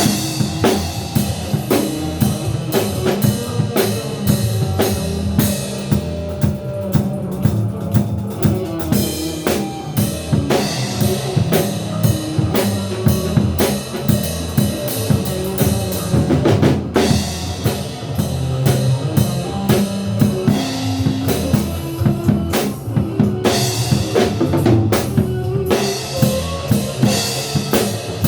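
Drum kit played along with a recorded band track, with many quick drum strikes over the music.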